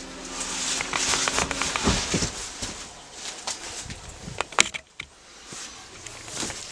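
Footsteps with scattered knocks and crackles. They are busiest in the first two seconds, and a few sharp clicks come about four and a half seconds in.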